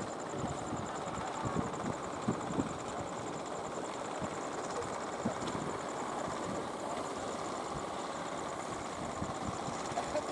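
Fishing boat engines running steadily, with uneven low knocks and some wind noise.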